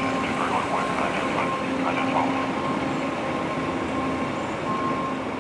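2005 Seagrave fire engine's diesel engine running steadily, a loud drone with a steady whine over it.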